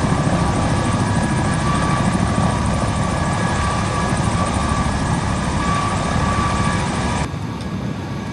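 Rescue helicopter running, a steady rushing noise with a faint whine; the sound drops a little and changes abruptly about seven seconds in.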